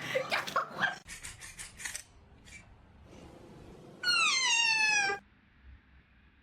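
A domestic cat meowing once, one loud call of about a second that slides down in pitch and breaks off abruptly.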